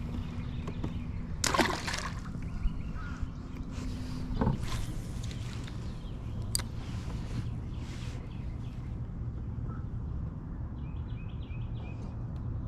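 Water sloshing against a fishing kayak's hull, with a few knocks and splashes in the first half.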